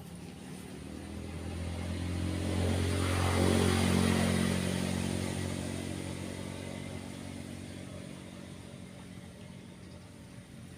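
A motor vehicle driving past: its engine and tyres grow louder to a peak about four seconds in, the pitch dropping as it passes, then fade away slowly, over a steady wash of surf.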